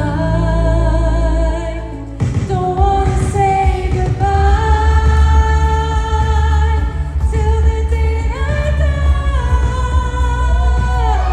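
Pop song with a voice singing long, held notes over a bass-heavy backing; the bass and beat come in stronger about two seconds in.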